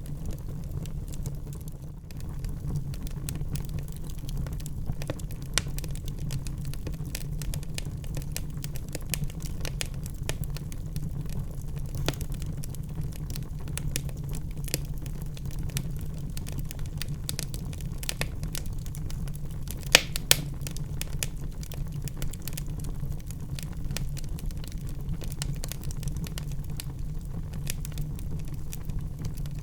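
Burning wood fire crackling, with irregular sharp pops over a steady low rumble of flames; the loudest pops come about 20 seconds in.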